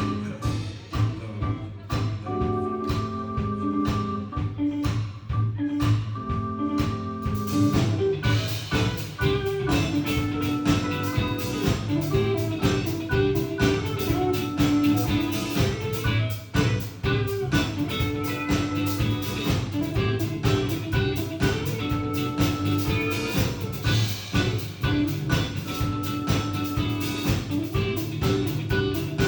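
Live band playing a groovy jazz-funk song with guitar and drum kit over a steady beat; the arrangement is sparse with held chords at first and fills out, with busier cymbals, about eight seconds in.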